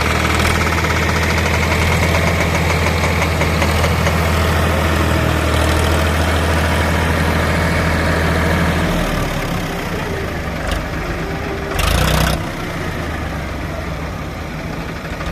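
JCB 3DX backhoe loader's diesel engine running steadily, then dropping to quieter running about nine seconds in. A short hissing burst comes about twelve seconds in.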